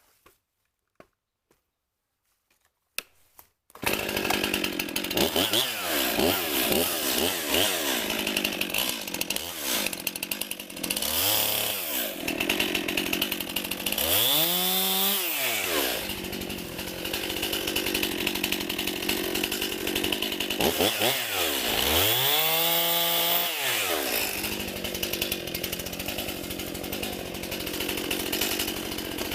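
A chainsaw starts about four seconds in and runs loudly, its engine revving up and back down twice.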